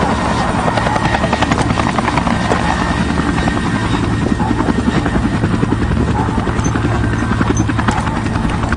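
Loud, steady, rapid mechanical chopping noise, like a large rotor or engine running close by.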